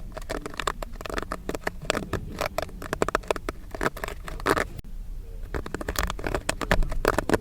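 Popcorn kernels popping in quick, irregular succession, a dense crackle of sharp pops that thins out briefly about five seconds in before picking up again.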